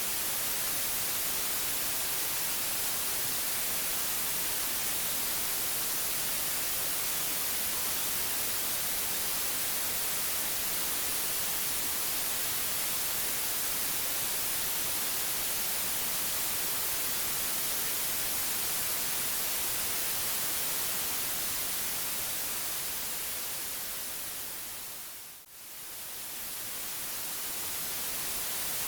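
Steady white-noise hiss, even across the range and strongest in the highs. Near the end it fades down over a few seconds to a brief near-silence, then swells back up.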